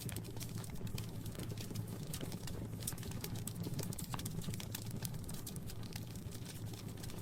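Fire crackling in a fireplace: irregular small pops and snaps, several a second, over a steady low rumble.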